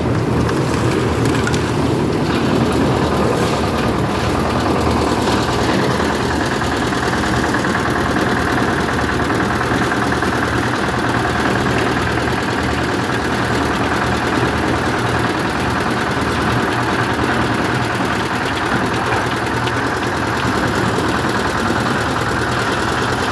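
An engine running steadily at a constant speed. A steady higher hum joins it about six seconds in.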